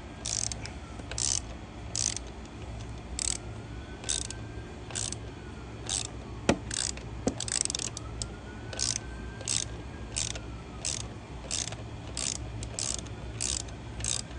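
Hand ratchet turning a Torx T40 tamper-proof socket to back out the motorcycle's steering-damper bolt: short runs of pawl clicking, a little more than one per second, with a couple of sharper clicks near the middle. The bolt is threadlocked.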